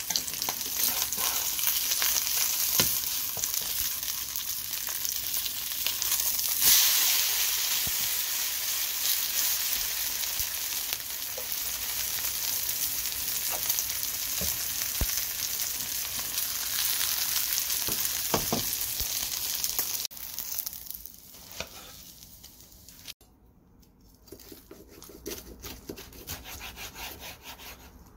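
Chamnamul and pork-belly pancake sizzling in oil in a frying pan, with a few sharp clicks of a spatula. The sizzle drops away about twenty seconds in, leaving fainter scattered taps.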